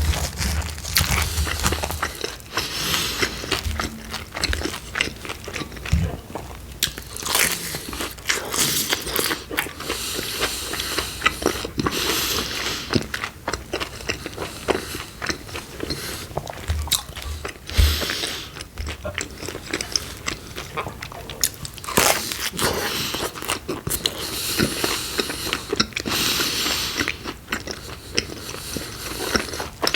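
Close-miked biting and chewing of pepperoni pizza, with the crust crunching and crackling at each bite.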